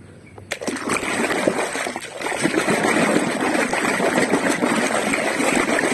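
Water running and splashing over a plastic toy forklift as the mud is washed off it, starting about half a second in and going on steadily.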